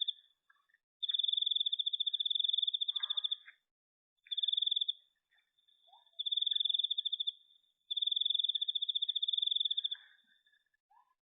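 Insect trilling at night: a high, rapid, pulsing trill that comes in five bursts of half a second to two seconds or so, separated by short pauses, with a few faint scratches between them.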